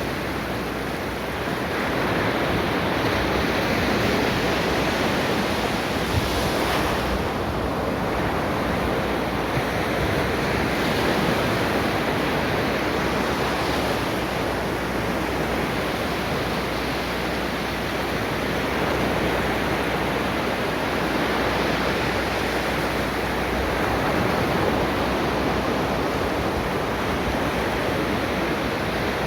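Ocean waves breaking and washing on a shore in a steady, continuous surf, swelling and easing gently, with some wind on the microphone.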